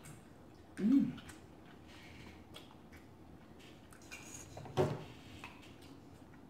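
Eating crab from a seafood boil: faint clicks and rustles of shell being handled, with a short hummed "mm" about a second in and a sharper crack or knock just before five seconds.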